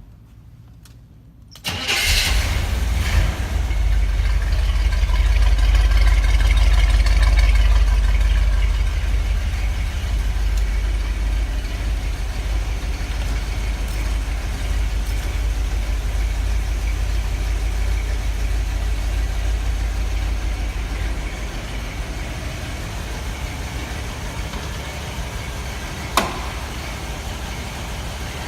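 1969 Chevrolet Corvette V8 engine starting from cold, catching abruptly under two seconds in and then running steadily. It runs loudest for the first several seconds and drops to a quieter idle about twenty seconds in, with a single sharp click near the end.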